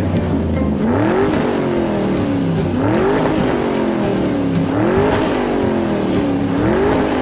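Engine revving over and over, about four times, each rev rising quickly in pitch and then falling away more slowly.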